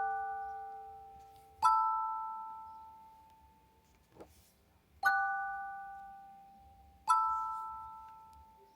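Slow, bell-like chimed notes: a few tones struck together three times, each ringing out and slowly fading.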